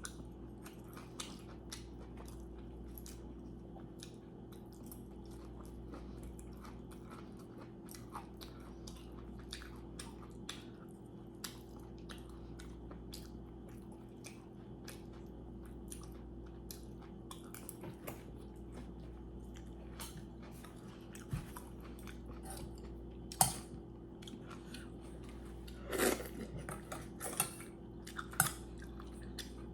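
Close-up chewing of food, with many small wet mouth clicks over a steady low hum. A few louder clicks or knocks stand out near the end.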